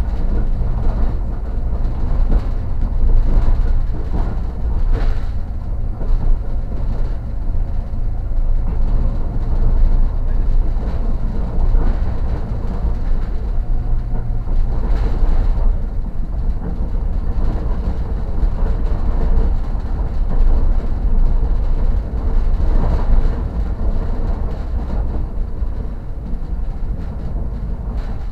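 Train running along the track, heard from inside the carriage: a steady low rumble of wheels on rails, with a few brief louder clatters now and then.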